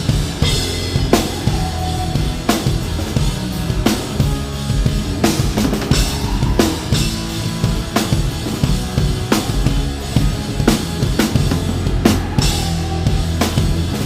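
Live hard rock band playing with the drum kit up front. Bass drum and snare drive a steady beat, with a heavy accented hit about every second and a half over the band's dense low sustained notes.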